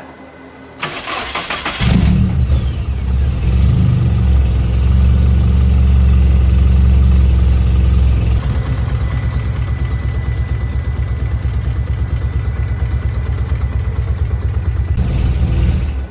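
Nissan KA24E 2.4-litre four-cylinder engine in a 1990 240SX cranking on the starter, catching after about a second and running at a fast idle. About eight seconds in it settles to a lower, steady idle with an even pulsing exhaust note, through a nearly straight pipe with a high-flow cat and high-flow muffler. It runs very smooth, with only a little shake, now that its leaking fuel injector seals have been replaced.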